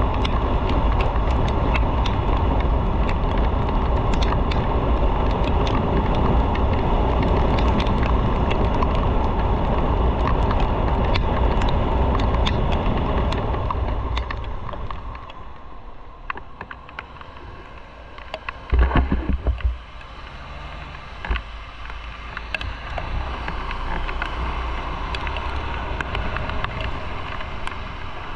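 A motorcycle on the move, heard as rushing wind and road and engine noise from the bike. About halfway through the noise falls away as the bike slows. A brief cluster of loud low thumps comes about two-thirds in, then the noise slowly builds again as it picks up speed.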